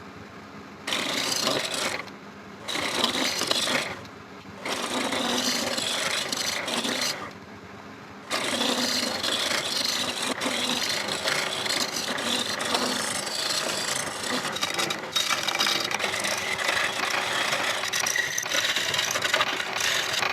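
A turning tool cutting a spinning rosewood bowl blank on a lathe, a rough scraping hiss. It comes in three short passes with brief pauses in which only the lathe's steady hum remains, then runs on continuously from about eight seconds in.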